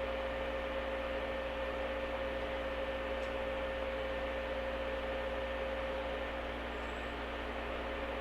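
Inside a standing 103 series electric train motor car (MoHa 102): a steady electrical hum and hiss with a constant mid-pitched tone, and no traction-motor sound.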